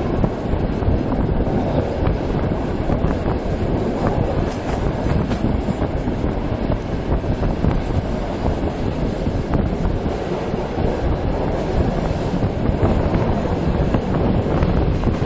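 Passenger train carriage rolling along the track, heard from inside at the window: a steady rumble of wheels and running gear, with wind on the microphone.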